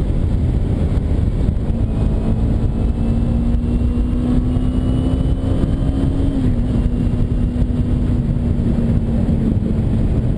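Kawasaki Ninja 250R's parallel-twin engine running at road speed, heard under heavy wind rush on a helmet camera. The engine note holds steady, creeps slightly higher, then drops a little about two-thirds of the way through.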